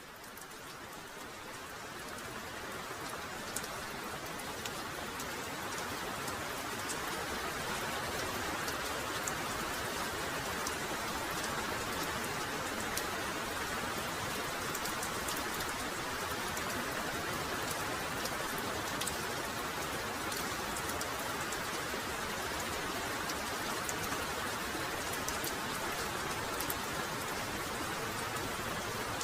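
Heavy rain falling steadily, with sharp ticks of single drops over the hiss. It fades in over the first few seconds, then holds a steady level.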